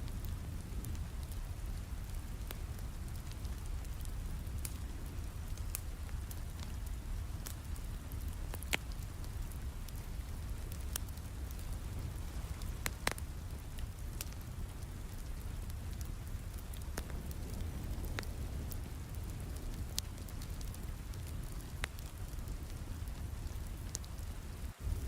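Steady rain with a low rumble, with the sharp irregular pops and crackles of a wood fire burning in a fireplace.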